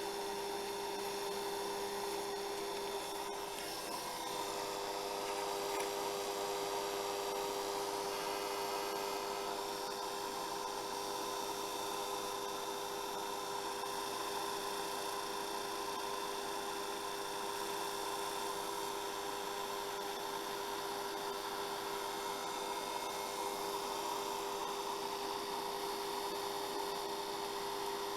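Hair dryer running steadily: a constant hum with an even rush of air.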